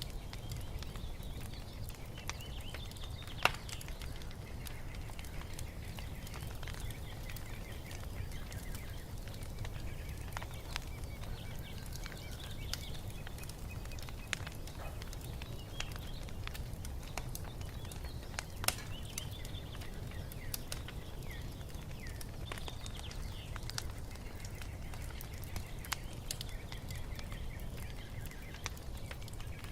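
Wood fire crackling with scattered sharp pops over a low steady rumble, the loudest pop a few seconds in and another past the midpoint. Birds chirp faintly throughout.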